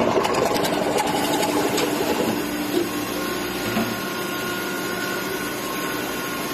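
PC bottle blow moulding machine running with a steady mechanical hum and several held tones, with light clicks and ticks during the first two seconds.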